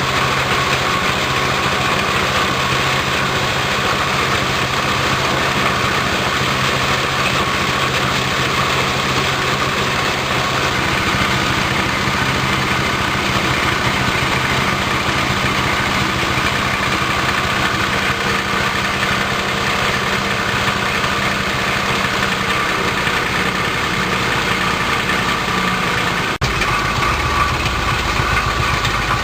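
Multipurpose grass and straw chopper-grinder machine running steadily under motor power, a loud even drone with a steady hum. Near the end the low hum changes abruptly.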